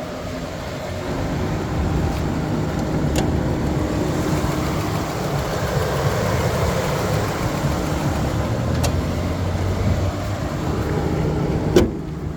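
Toyota Sienna's 3MZ-FE 3.3-litre V6 idling steadily, with a few sharp clicks; the loudest click comes near the end.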